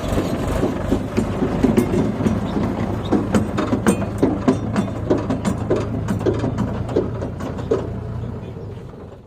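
Tractor engine running steadily under load, with a loaded trolley rattling and clanking along in many quick knocks. The sound fades out near the end.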